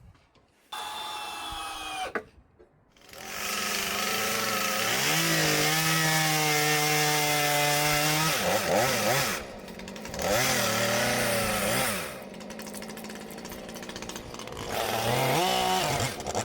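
A small petrol engine revs up and runs at high speed. About halfway through, its pitch begins dipping and rising repeatedly, like a saw engine labouring and recovering as it cuts.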